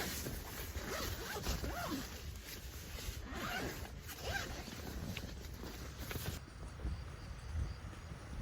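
A zipper being pulled in a series of short strokes, stopping about six seconds in.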